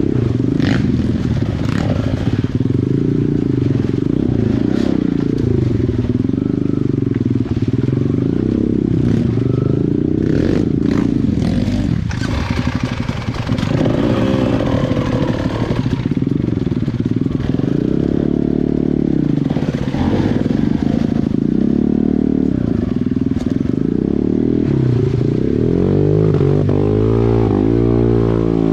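Small dirt bike engine revving up and down as it is ridden over rocks, its pitch rising and falling again and again, with a few sharp knocks and clatters of the bike striking rock.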